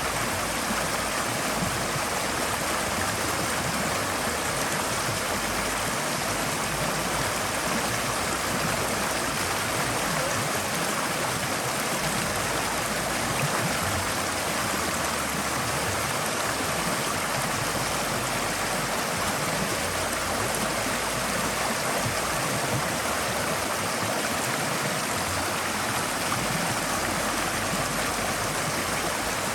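Forest stream flowing over rocks: a steady, unbroken rush and babble of water.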